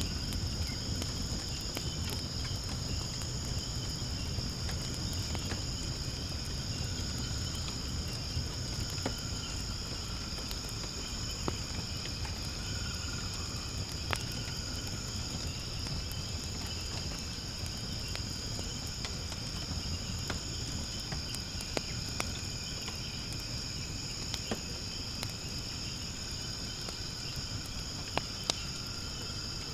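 Firewood burning in a fire pit, with scattered sharp crackles and pops over a low rumble of flame. A steady, high insect chorus of crickets runs underneath.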